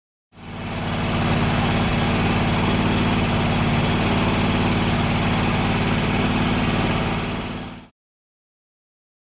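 Kawasaki FR691V V-twin mower engine running steadily at an even speed, freshly rebuilt with new cylinder heads; the owner says it needs a little carburetor adjustment. The sound fades in at the start and cuts off abruptly near the end.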